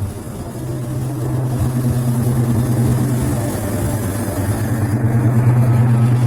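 Diesel engine of a KAI CC206 diesel-electric locomotive running with a steady low hum that sets in under a second in and grows louder toward the end.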